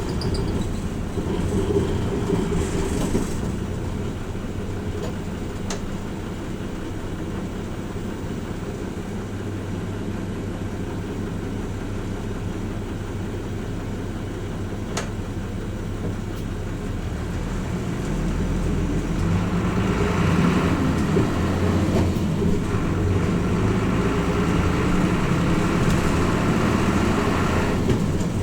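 Hino Rainbow RJ (P-RJ172BA) diesel bus heard from inside the cabin while running, a steady low engine hum with road rumble. The engine eases off for a while in the middle, then grows louder again about two-thirds of the way in as the bus pulls harder.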